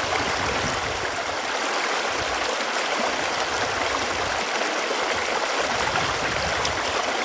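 Running water making a steady, even rushing hiss.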